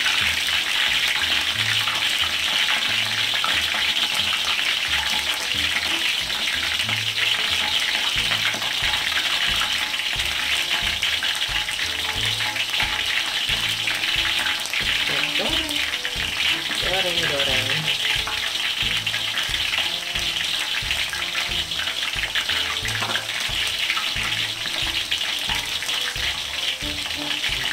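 Flour-coated chicken pieces deep-frying in hot oil in a wok: a steady, continuous sizzle as more battered pieces are spooned into the oil.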